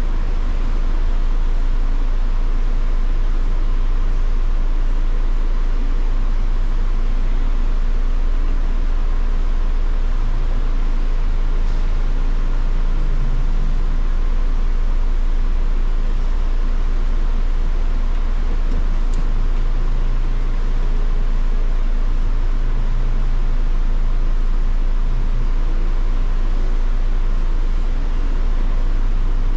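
Steady low mechanical rumble, with a faint click about twelve seconds in and a sharper one about nineteen seconds in.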